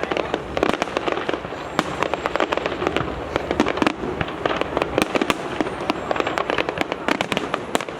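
Fireworks display: a dense, continuous crackle of many overlapping pops and bangs, several a second, with no pause.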